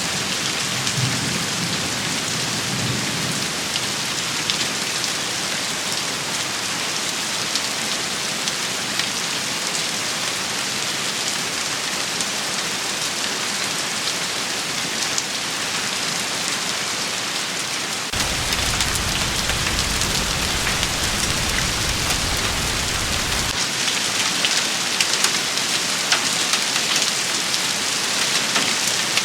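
Steady rain shower pattering on a surface, dense and even. A faint low rumble sits under it at the start, and past the middle a heavier low rumble comes in for about five seconds and cuts off abruptly; near the end single drops hit a little harder.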